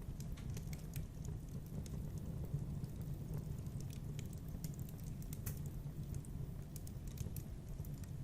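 Wood fire crackling in a fireplace: a steady low rumble of the flames with irregular sharp pops and snaps scattered through it.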